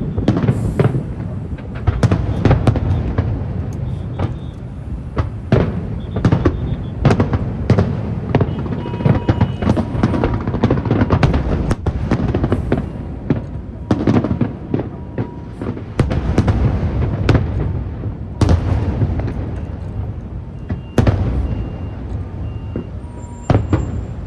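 Aerial fireworks display: shells bursting in quick succession, with sharp bangs several times a second over a continuous low booming from overlapping explosions.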